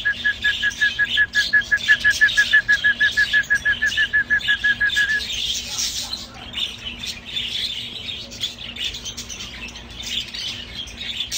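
Many caged pet birds chirping and chattering together, with a rapid run of identical short high notes, about six or seven a second, that stops about five seconds in.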